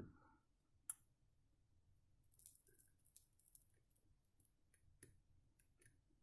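Near silence with a few faint small clicks and handling noises from soldering work, one sharper click about a second in.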